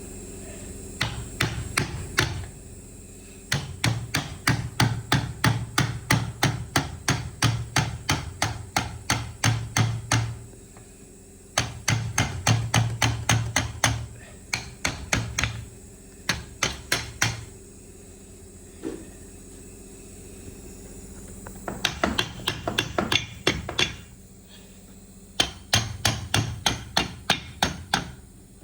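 Hammer tapping repeatedly on steering column parts, in runs of quick blows about three a second, with short pauses between the runs.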